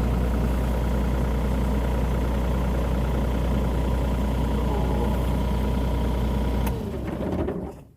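Mini excavator's diesel engine running steadily, then shut off near the end, winding down to a stop.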